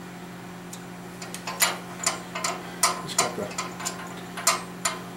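Hammer strikes driving soft (freeze) plugs into a cast-iron 5.7 engine block: about ten sharp metallic taps, roughly half a second apart, starting a little over a second in, over a steady background hum.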